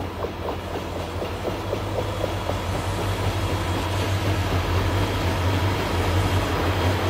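Union Pacific freight train passing close: the diesel locomotives' engines give a steady low drone that grows louder as they go by, with rapid clicks of wheels over the rail joints in the first couple of seconds. The rolling noise of the freight cars follows behind.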